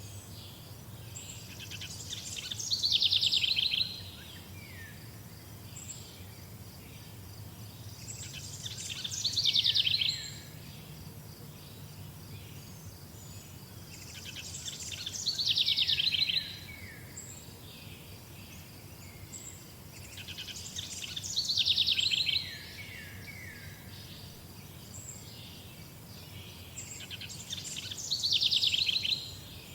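A songbird repeating the same song five times, about every six seconds: each song is a fast trill that grows louder and ends in a few falling notes. Underneath runs a faint steady high chirring and a low hum.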